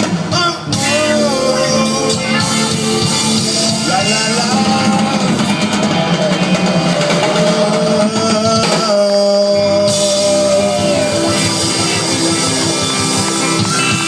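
Live band playing a slow soul groove, with drums, bass and guitar under a gliding sung melody line.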